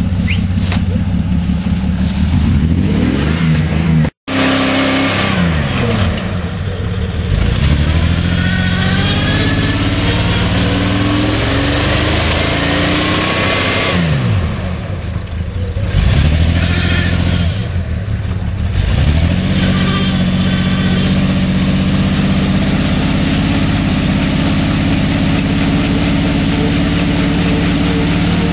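A vehicle engine revving hard, its pitch climbing and falling back again and again. The sound cuts out for an instant about four seconds in.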